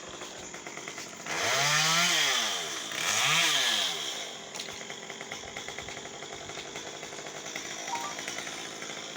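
Chainsaw revved up and let back down twice, each rev rising and falling in pitch over about a second, then left idling with a rough, uneven pulse.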